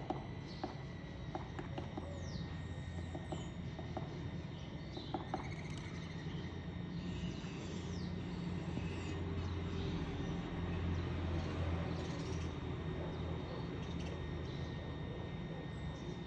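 Birds chirping now and then, short falling chirps every few seconds, over a steady low hum.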